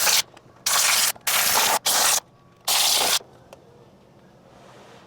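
Compressed-air blow gun fired in short loud blasts, about half a second each, five in the first three seconds, blowing loose dirt off around the lower intake manifold so it cannot fall into the valve area.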